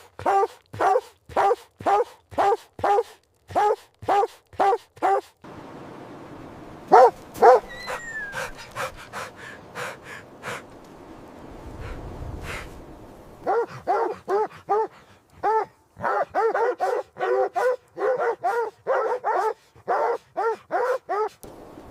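A dog barking in steady runs of about two barks a second. The barking breaks off about five seconds in, leaving a few scattered single barks, and starts again as a steady run some thirteen seconds in.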